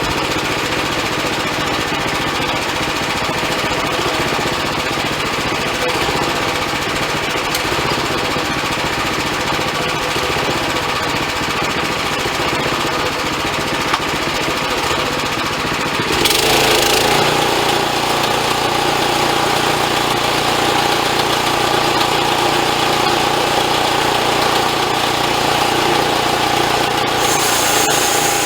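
Portable bandsaw sawmill's engine running steadily. A little past halfway the sound changes abruptly to a steadier hum with a held tone, and a high hiss joins near the end.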